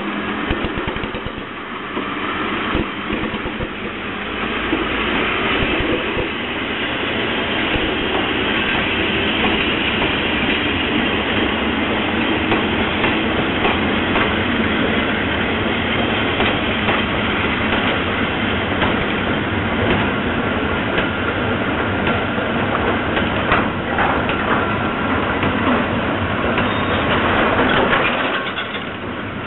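Seibu E31-class electric locomotive and its train of hopper wagons rolling past close by: a steady, loud rumble of wheels on rail, with sharp clacks as the wheels cross rail joints. The sound dips briefly near the end as the rear locomotive goes by.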